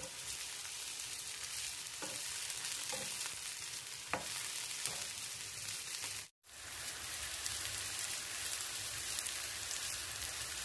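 Sliced artichokes frying in olive oil in a pan: a steady sizzle with a few small pops, broken off briefly about six seconds in.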